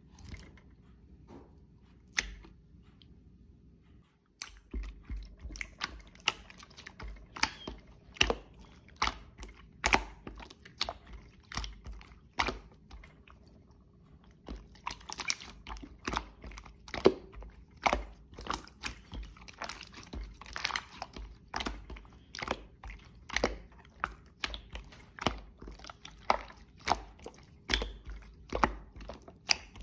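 Irregular crisp clicks and crunches, one to three a second, starting about four seconds in.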